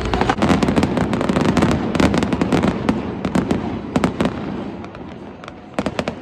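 Fireworks display going off: a dense run of rapid cracks and booms over a heavy low rumble, thinning to a few scattered sharp cracks near the end.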